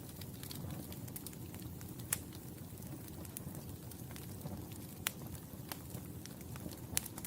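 Wood fire burning in a fireplace: a steady low rumble of flames with scattered sharp crackles and pops, a few louder pops about two, five and seven seconds in.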